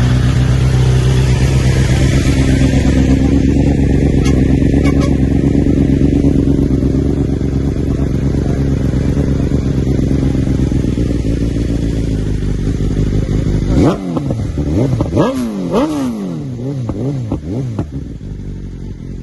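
BMW S1000 RR inline-four engine breathing through an Akrapovic exhaust, idling steadily. About fourteen seconds in it is given a quick series of throttle blips, the revs jumping up and falling back several times, then it settles toward idle.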